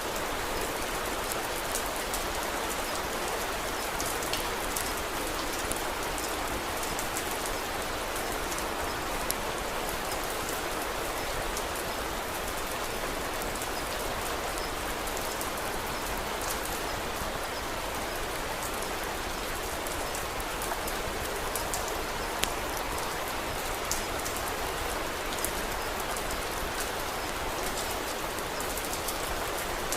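Steady rain with scattered sharp crackles of a wood fire.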